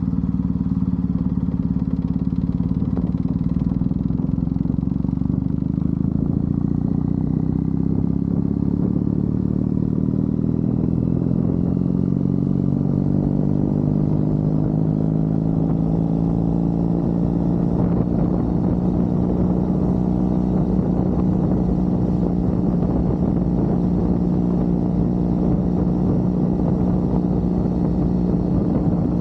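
Triumph Bonneville parallel-twin engine running under way, heard from the rider's seat. Its note holds steady, then climbs gradually from about halfway through as the bike picks up revs, and settles again.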